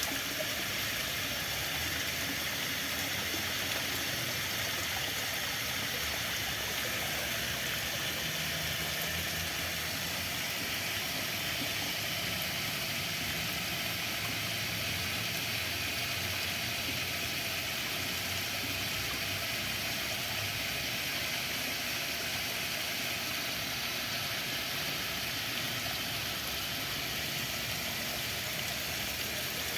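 Flowing water: a steady, unbroken rush of running water, as of a stream.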